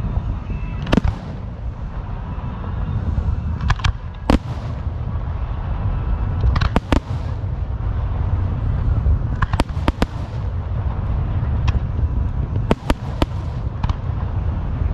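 Fireworks going off: about a dozen sharp bangs at irregular intervals over a continuous low rumble of further explosions.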